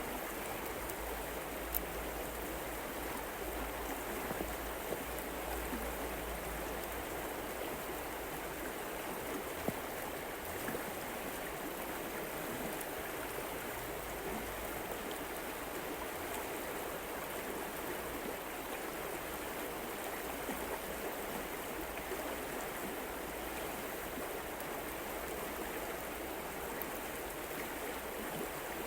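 Stream water running steadily, an even rushing with a couple of small clicks.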